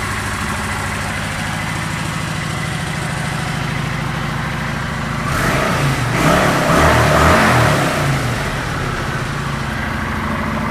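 2011 Kawasaki Vulcan 900 Classic's V-twin engine idling steadily. About five seconds in, the throttle is blipped for a few seconds, then the engine settles back to idle.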